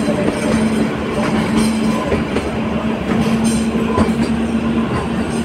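Kalka–Shimla narrow-gauge toy train running, heard from aboard: a steady rumble of wheels on track under a constant low hum, with a few irregular clicks from the rail joints.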